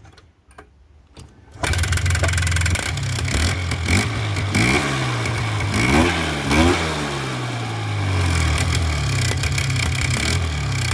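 Polaris Trail Boss 350L ATV engine catching about a second and a half in, then running, blipped up in revs a few times around the middle before settling to a steady run. Part of the sound is an exhaust leak, the owners think.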